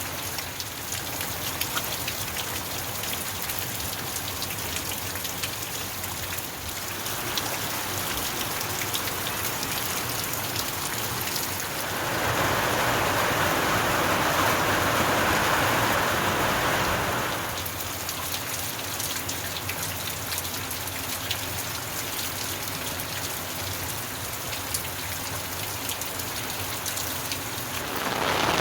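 Heavy rain falling steadily, a dense hiss dotted with the ticks of individual drops striking surfaces. Roughly halfway through it grows louder for about five seconds, then settles back, and rises again at the very end.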